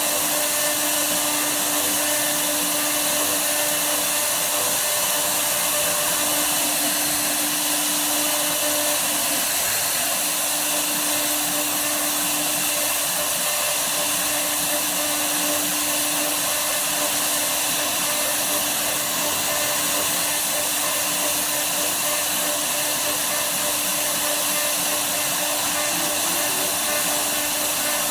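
Woodworking CNC router's spindle running steadily as it cuts wood: an even, high hiss with a low hum that fades in and out.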